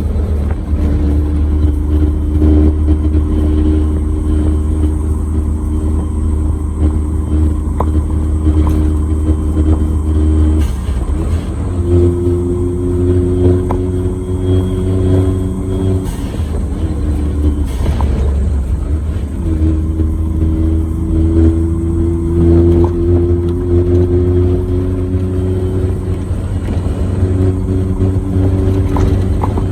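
Suzuki Jimny JA11 on a paved road, heard as its small engine running under load with steady low road and tyre drone from Geolandar X-MT mud-terrain tyres. The engine note breaks and picks up again a few times as it changes gear, rising again near the end.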